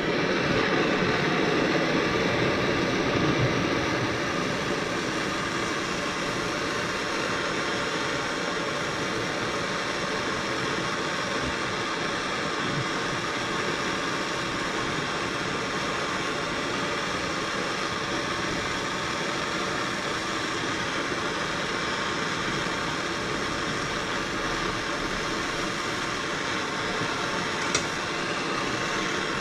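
Handheld gas torch burning with a steady hiss as it heats a broken head stud and its welded-on nut to free them from an aluminium cylinder head. A single short click near the end.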